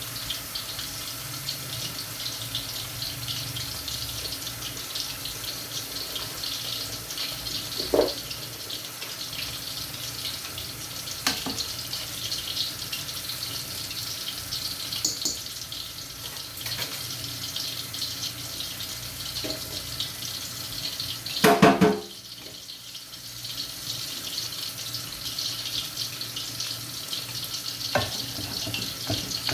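Steady kitchen hiss with fine crackling, broken by a few clunks of cookware. The loudest is a short rattle of knocks about twenty-two seconds in, after which the hiss briefly dips.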